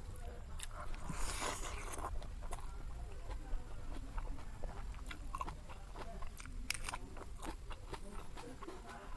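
Close-miked eating: chewing and biting a mouthful of rice and greens taken by hand, with many small irregular clicks and crunches. A louder rustling noise comes about a second in.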